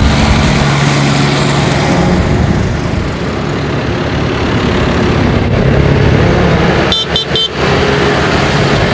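Tractor engines running steadily as tractors go by, with three quick high-pitched horn toots about seven seconds in.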